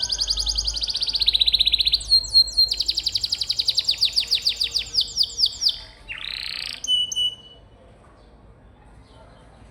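Domestic canary singing long rolled trills of very fast repeated high notes, with a short break about two seconds in. The song ends in a rising rasp and a brief clear note after about seven seconds, and the bird then falls silent.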